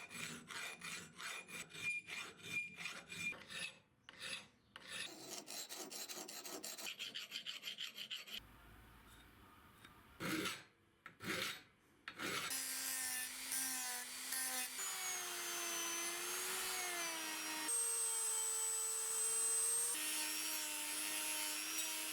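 Hand filing or rasping, a few quick scraping strokes a second. After a couple of short breaks it gives way to a power tool running with a steady whine that wavers and shifts in pitch.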